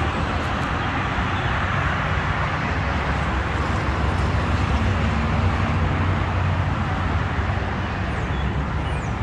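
Steady motor-vehicle noise: a low engine hum under an even rush of road noise, with no sudden events.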